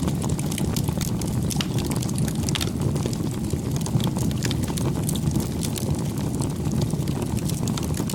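Campfire burning: a steady low rumble with frequent small, irregular crackles and pops from the burning wood.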